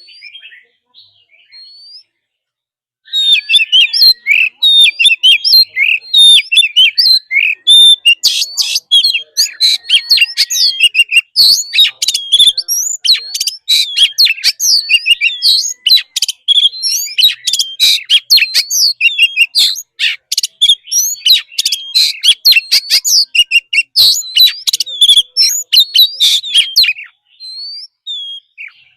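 Oriental magpie-robin singing a loud, fast, varied song of sharp whistles and chirps. The song starts about three seconds in after a few faint calls and breaks off a couple of seconds before the end.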